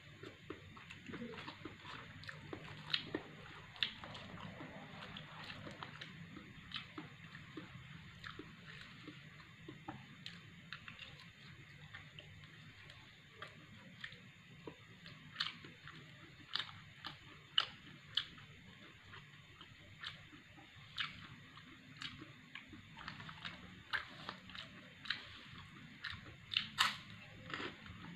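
A person chewing a mouthful of rice and biting crisp kerupuk crackers, with irregular sharp crunches and small mouth clicks.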